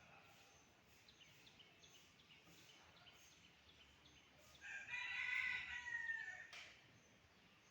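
A rooster crowing once, a single drawn-out call of about two seconds that falls in pitch at the end, over faint chirping of small birds.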